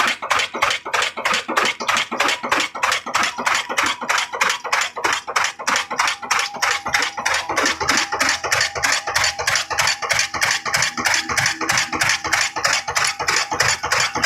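Old black 'kala' desi diesel engine, a slow-speed single-cylinder, running steadily, each firing a sharp knock at about three and a half beats a second.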